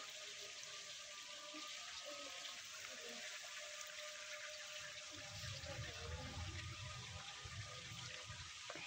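Faint, steady hiss of rain and wet outdoor surroundings, with a low rumble on the microphone from about five seconds in.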